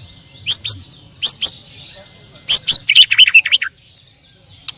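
White-rumped shamas (murai batu) singing: loud, sharp whistled notes in quick pairs, then a fast chattering run of notes in the middle, a short lull, and another call near the end.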